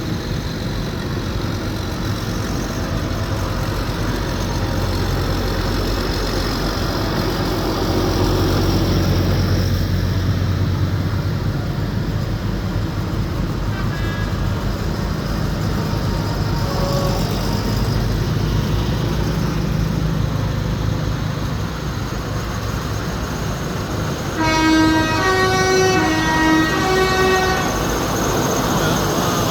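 Tractor engines running in a steady low rumble as they pass. About 24 seconds in, a multi-tone horn sounds for about three seconds, changing pitch a few times.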